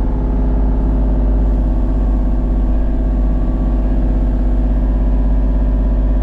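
Tractor engine running steadily at a constant speed, loud and low-pitched.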